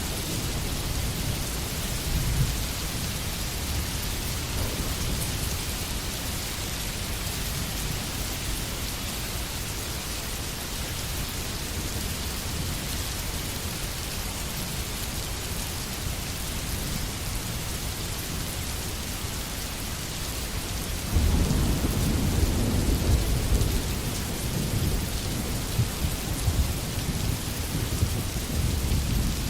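Steady rain falling in a forest, with low thunder rumbling beneath it; a louder roll of thunder comes in about two-thirds of the way through and rumbles on.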